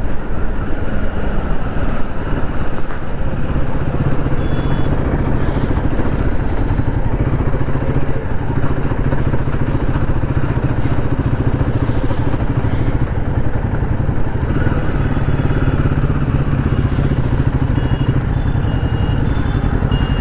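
Motorcycle engine running steadily at riding speed, with road noise.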